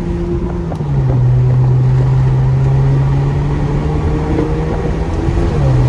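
Straight-piped Infiniti Q50 exhaust, with no mufflers or resonators, running loud under a hard pull with the wheels spinning. The engine note steps down in pitch about a second in, where it gets louder, and steps down again near the end.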